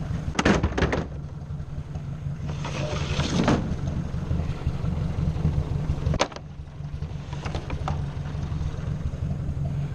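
Ford 600 tractor's four-cylinder engine running steadily. A few short knocks and clatters are heard over it, around the first second, about three seconds in and just after six seconds.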